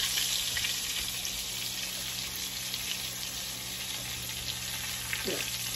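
Breaded eggplant slices frying in shallow olive oil in a cast iron skillet: a steady sizzle that eases slightly over the few seconds.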